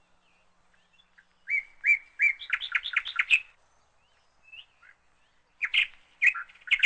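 A bird chirping: a quick run of high, repeated chirps lasting about two seconds, then a few more scattered chirps near the end.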